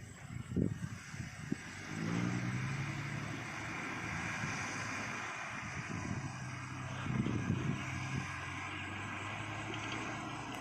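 Heavy truck's diesel engine running with a steady drone that sets in about two seconds in, swelling louder briefly near the middle.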